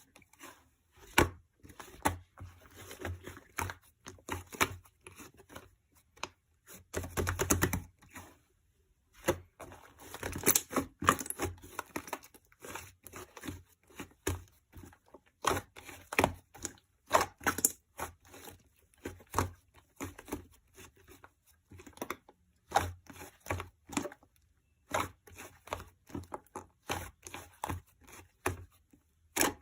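Close-up handling noises: irregular sharp taps and clicks mixed with crinkling and tearing, with a longer tearing burst about seven seconds in and another around ten to twelve seconds in.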